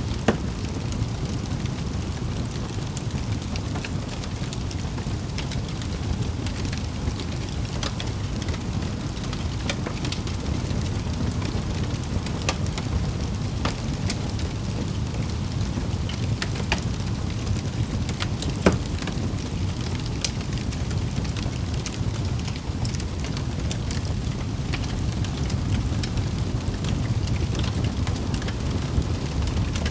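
Wood fire crackling: a steady low rumble with scattered sharp pops, two louder ones just after the start and around nineteen seconds in.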